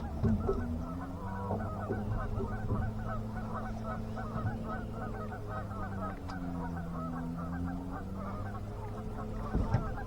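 A flock of geese honking continuously, many calls overlapping, over a steady low hum.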